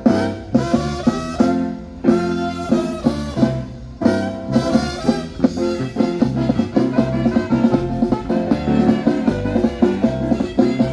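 Band music with brass and a steady drum beat.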